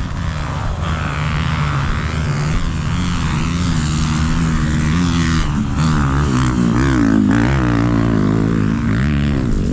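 Off-road vehicle engine working under load, its pitch wavering up and down as the throttle is worked.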